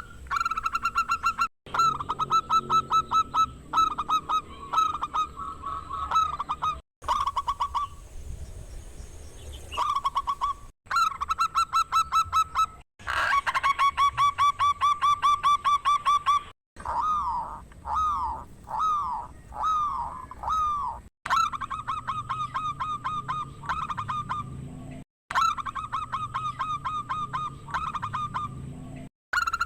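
Zebra dove (perkutut) singing: fast runs of short, repeated cooing notes. The runs are broken by abrupt cuts every few seconds.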